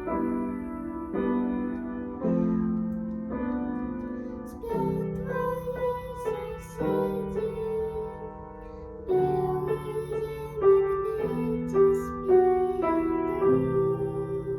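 Piano music: a slow melody over held chords, the notes and chords changing roughly once a second.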